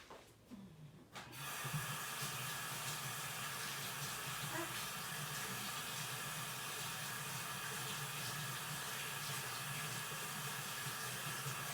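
Water tap running into a sink while hands are washed under it, turned on about a second in and then running steadily.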